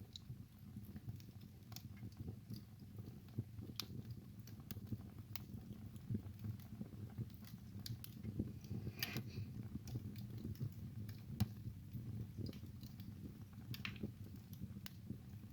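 Wood fire burning in a fireplace: a low steady rumble of flame with irregular sharp crackles and pops from the burning wood, and a brief hiss about nine seconds in.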